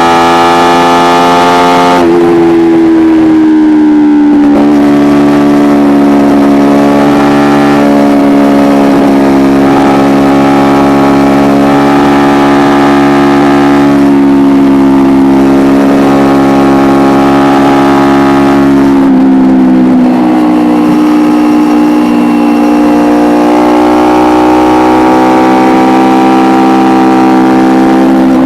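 Kawasaki Ninja 250R's parallel-twin engine, running through an Akrapovic exhaust, under way at steady revs. Its pitch jumps up about two seconds in, sags slowly, dips again about twenty seconds in, then climbs gradually toward the end.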